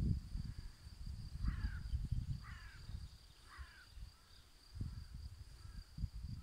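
A bird gives three short calls about a second apart, each falling in pitch, over wind buffeting the microphone in low rumbling gusts. A faint steady high tone runs underneath.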